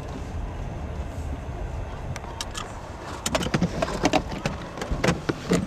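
A car's low, steady rumble, then from about three seconds in a run of sharp clicks and knocks.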